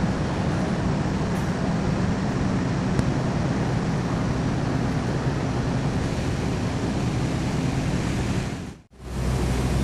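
Steady low hum and rumble of a stainless-steel passenger train standing at the station platform with its machinery running. The sound cuts out for a moment just before the end, then comes back with a stronger low hum.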